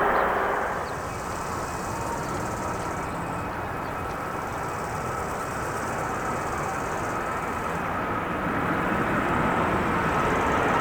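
Jet airliner engine noise: a steady rumble with a faint whine that drops away about a second in, then slowly grows louder again as another aircraft approaches.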